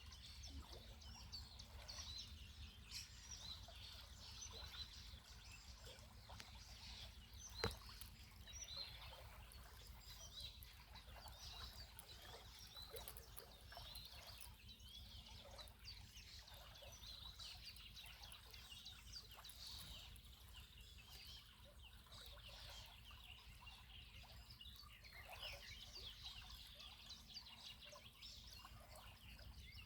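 Faint chorus of small songbirds, many short chirps and trills overlapping, over a steady low rumble. A single sharp click sounds about a quarter of the way in.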